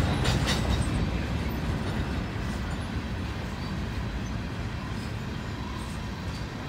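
Freight train tank cars rolling past: a steady low rumble of steel wheels on rail that slowly fades, with a few faint knocks in the first second.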